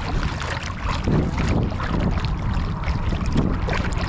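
Wind rumbling on the microphone over moving river water, with small irregular splashes and ticks.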